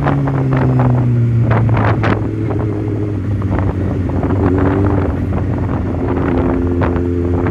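Tuned Kawasaki ZX-6R inline-four engine running under way at fairly steady revs, easing slightly at the start and then holding, with gusty wind buffeting on the microphone.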